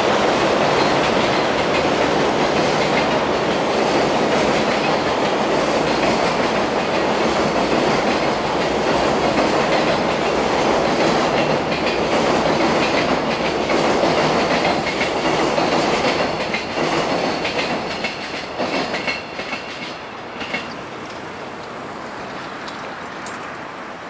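A long freight train of container wagons rolling across a railway bridge, the wheels clattering over the rail joints. The clatter holds steady, then fades away from about sixteen seconds in as the last wagons draw off.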